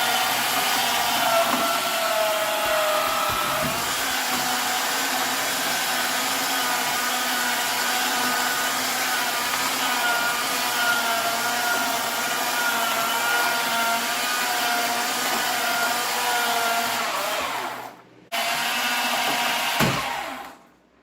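Electric Warn winch running under load, its motor whine wavering in pitch as it hauls a snowmobile in on a rope. It stops briefly about three-quarters of the way through, starts again, then stops near the end.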